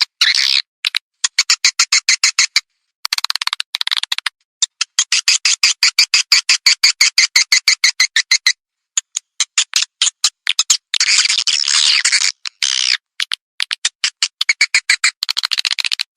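Recorded swiftlet calls used as a lure to draw swiftlets into a nesting house: fast, high chattering chirps in runs of a few seconds, broken by short clean silences.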